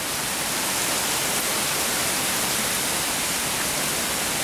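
Heavy rain pouring steadily in a thunderstorm: an even, dense hiss with no thunderclap.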